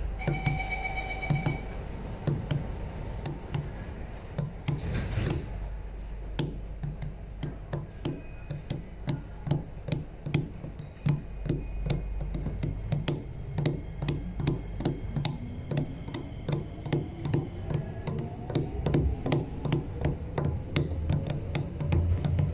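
Steady, regular clicking knocks, about two to three a second, with a short beeping tone about half a second in. Near the end comes a slowly rising whine as the MRT train pulls away from the platform.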